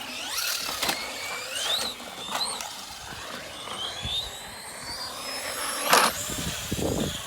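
Electric RC cars' motors whining, rising in pitch as they accelerate, with sharp knocks of the cars hitting the ground; the loudest knock comes about six seconds in.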